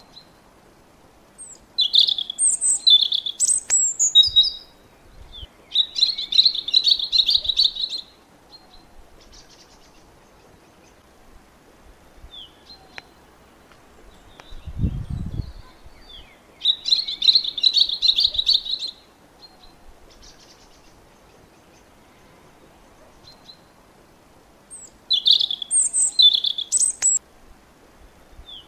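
A songbird singing in separate bursts: a phrase of clear high chirping notes, then a fast trill, repeated with long pauses between them. A brief low rumble comes about halfway through.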